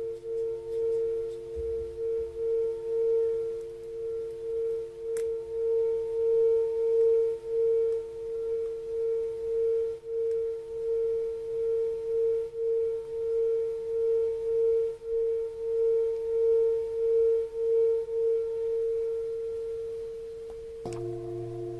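Singing bowl ringing in a long, steady hum whose main tone wavers in a slow, pulsing beat, with fainter higher overtones. Shortly before the end a click brings in a fresh set of tones at different pitches.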